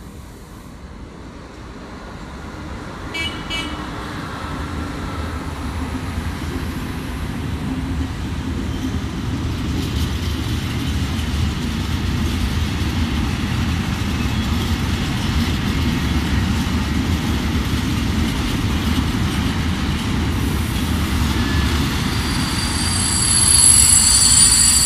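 Electric locomotive hauling a freight train of tank wagons, its rumble and wheel noise building as it approaches and passes; a short horn toot sounds about three seconds in, and a high steady squeal from the wheels joins near the end.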